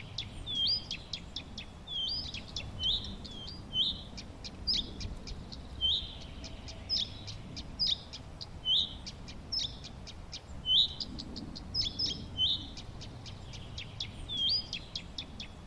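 Songbirds chirping: a short, swooping call note repeated about once a second, with quick, sharp high chips in between, over a faint low background hum.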